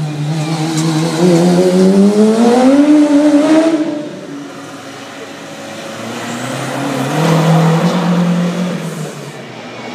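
Car engines accelerating one after another out of a hairpin. The first rises steadily in pitch for about three seconds, then fades about four seconds in. A second car's engine swells from about six seconds in and dies away near the end.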